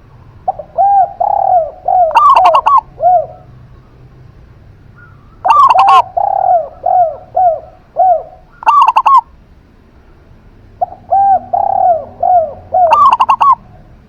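A zebra dove and a spotted dove cooing together in three bouts, about a second in, at mid-point and near the end. Each bout is a run of rounded, falling coo notes at a lower pitch mixed with a higher, brighter, rapid phrase.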